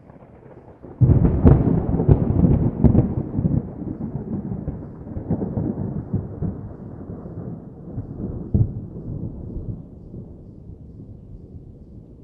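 Thunder: a clap breaks about a second in with several sharp cracks, then rumbles on with a couple of further swells and slowly rolls away.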